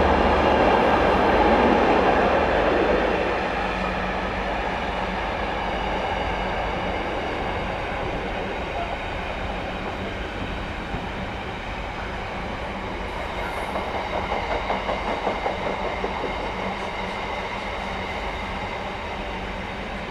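Freight train passing at speed: the GB Railfreight Class 66 diesel locomotive's two-stroke V12 engine is loud for the first three seconds, then fades as it pulls away, leaving the steady rolling rumble of the container wagons, with a run of rhythmic wheel clatter over rail joints about fourteen seconds in.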